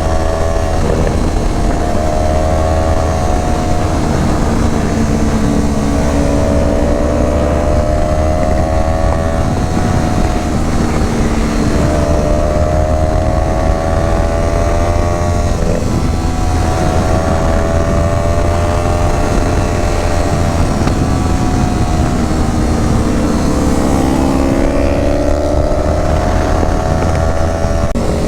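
Motorcycle engine under way, its pitch rising over a few seconds and then dropping, again and again as the rider accelerates and changes gear, over a steady low rumble of wind on the microphone.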